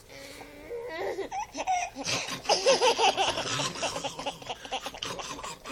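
A baby laughing hard: a few high squeals, then from about two seconds in a long run of rapid belly laughs.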